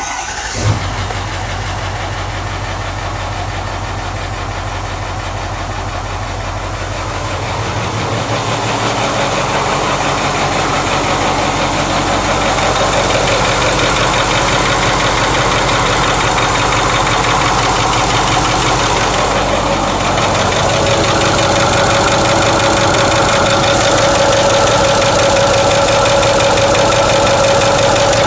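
Ford 6.4 Powerstroke V8 diesel running with a knocking over the general loud diesel clatter, after a full rebuild; the owner places the knock at the rear driver side and fears a bearing or lifter. It gets louder about eight seconds in and again around twenty seconds.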